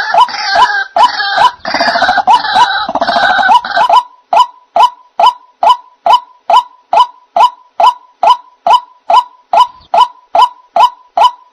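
Lure recording of white-breasted waterhen (ruak-ruak) calls. For about the first four seconds several harsh calls overlap in a dense chorus, then one sharp note repeats evenly about two and a half times a second.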